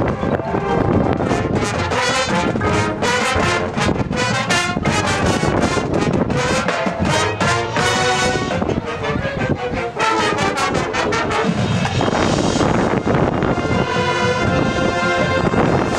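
High school marching band playing, brass chords carrying the melody over frequent drum hits, with wind rumbling on the microphone.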